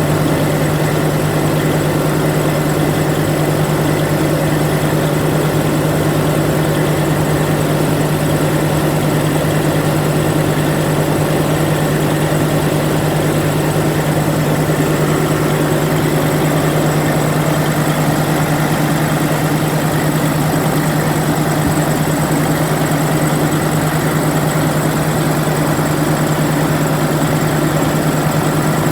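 1994 Detroit Diesel Series 60 12.7-litre inline-six diesel engine idling steadily.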